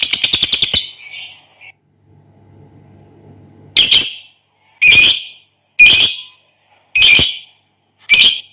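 Lovebird calling. A rapid chattering trill cuts off about a second in, then after a pause come five loud, shrill squawks about a second apart.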